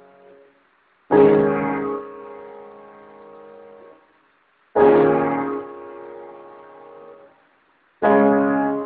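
Piano chords played slowly: three chords struck about three and a half seconds apart, each held and dying away before the next.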